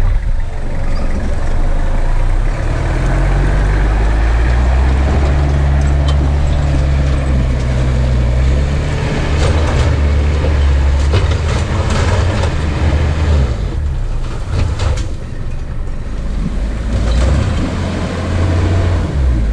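A 4WD's engine working hard as it tries to climb a slippery rise, its note shifting up and down, easing off about fourteen seconds in and picking up again near the end, with scattered knocks and clunks from the vehicle over rough ground. The vehicle does not get up the climb.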